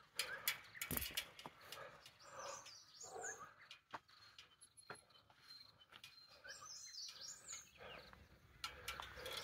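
Faint wild birdsong: repeated short chirping phrases, with softer calls and a few scattered clicks.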